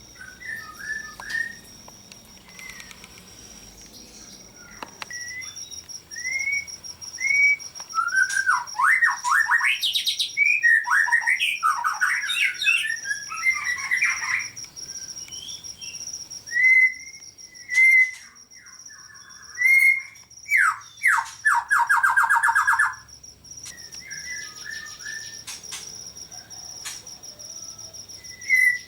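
Several caged songbirds calling and singing: short upward-sweeping whistles and chirps, a busy burst of song in the middle, and a fast rattling trill a little later.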